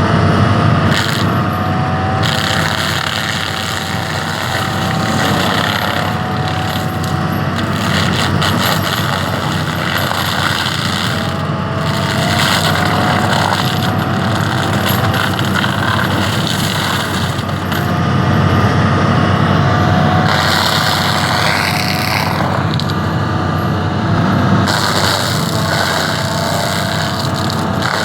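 Excavator driving a TFS160 forestry mulcher head, its rotor spinning and shredding brush and wood over the excavator's running engine. The noise is steady and dense, swelling and easing a little as the load changes.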